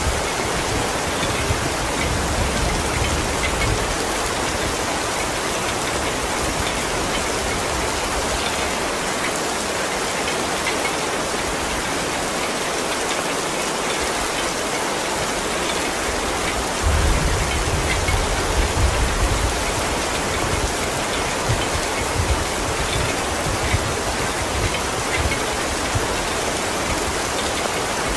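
Heavy rain falling steadily, a dense, even hiss of many drops. A low rumble swells under it at times, most strongly a little past the middle.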